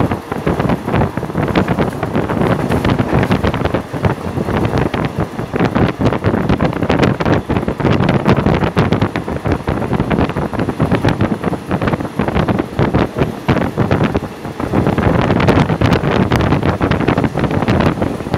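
Moving passenger train heard from on board: a rapid, irregular clatter of wheels on the rails mixed with steady rushing wind buffeting the microphone.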